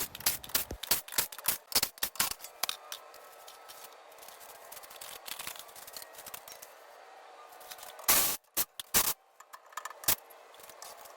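Irregular metallic clicks and clanks of hand tools working on a skid steer while its wheels and panels are being removed. The clicks are busy at first, then sparse, with two louder short bursts about eight and nine seconds in.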